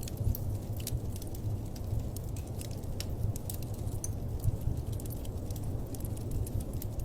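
Wood fire crackling in a fireplace: frequent irregular small pops and snaps over a steady low rumble.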